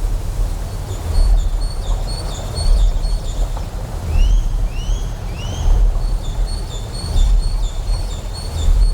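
Deep generator hum that swells in slow pulses about every one and a half seconds, over a steady rush of flowing water. High chirping calls sound above it: runs of quick repeated chirps, and three arched calls in the middle.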